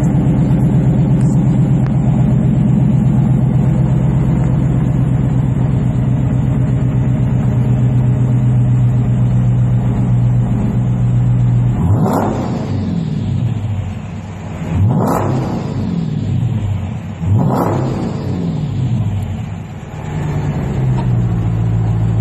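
2014 Dodge Challenger R/T Shaker's Hemi V8 with a Borla exhaust idling with a deep, steady note. About halfway through it is revved three times in quick succession, each rev rising and falling back, before it settles to idle again.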